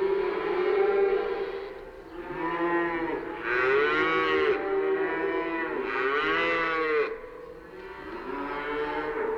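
Cattle mooing: a run of long moos, each rising and then falling in pitch, with some calls overlapping. The loudest two come in the middle, and the last calls are fainter.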